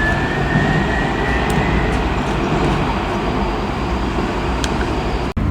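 Steady rumble of road traffic with a faint whine that rises slowly and levels off about two seconds in, cut off suddenly near the end.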